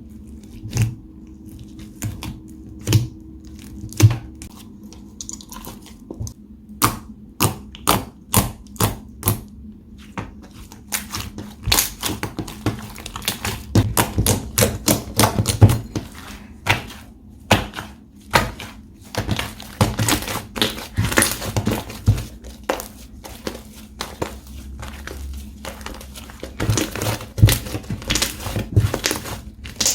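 Slime being pressed, stretched and squished by hand, giving irregular sharp clicks and pops of trapped air. The pops are sparse at first and come thick and fast from about a third of the way in.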